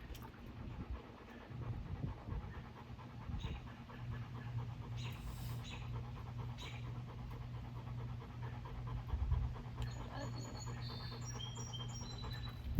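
A dog panting steadily and close by, with a few short, high chirps from a small bird near the end.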